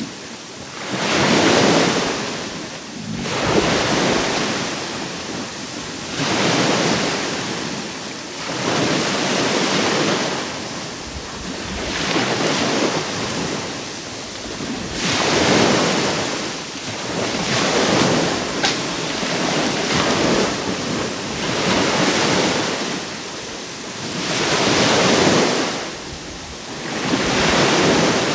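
Sea waves breaking and washing up on the shore, a fresh surge every two to three seconds.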